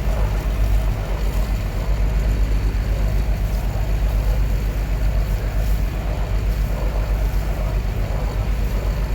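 Kochi Water Metro ferry under way, heard on board: a steady low rumble with a faint high whine above it.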